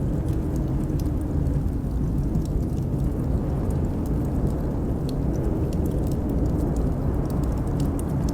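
Blizzard wind blowing in a steady low rumble, with a wood fire crackling in frequent small, sharp pops over it.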